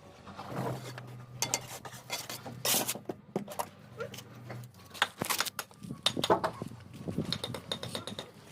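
A steel bricklaying trowel clinking and scraping irregularly against bricks and mortar, with sharp taps and short scrapes. A low hum comes and goes under it.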